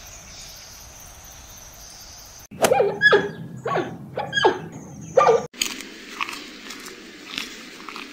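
An animal calling: a quick series of about five short cries, each falling sharply in pitch, over steady background noise.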